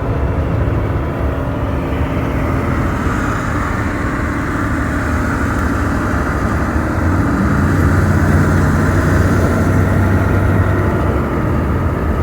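A car driving, with steady road and engine noise. A low engine hum grows stronger about seven seconds in and fades again near the end.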